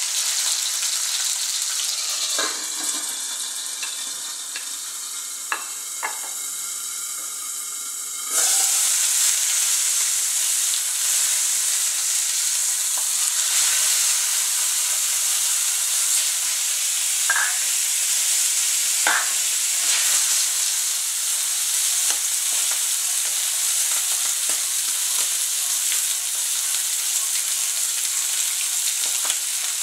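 Chicken breast sizzling in oil in a nonstick frying pan, a steady hiss that is quieter for the first eight seconds or so and then jumps up suddenly. A few short clicks come as the breast is turned with tongs.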